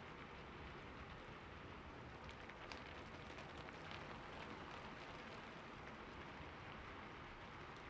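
Rain falling steadily on a roof: a soft, even hiss, with individual drops ticking sharply now and then.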